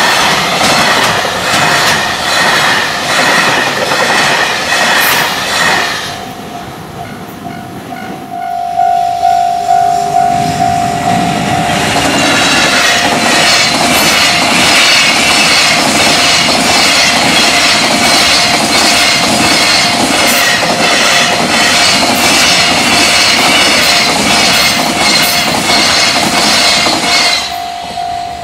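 Container freight trains rushing through a level crossing at speed, wheels clattering rhythmically over the rail joints, with the crossing's warning bells ringing. The first train's clatter stops about six seconds in, leaving the bells and a steady tone. The next train arrives some six seconds later and runs past for about fifteen seconds until its clatter falls away near the end.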